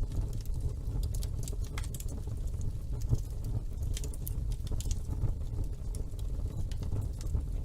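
Wood fire burning in a fireplace, crackling with frequent small irregular pops over a low, steady rumble of flame.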